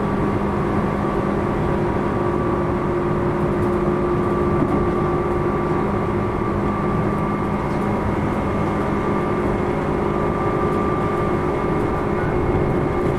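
Running sound inside a motor car of a Tobu 10000 series electric train, a field-chopper-controlled commuter EMU: a steady rumble of wheels on rails, with a continuous motor and control hum holding several even tones.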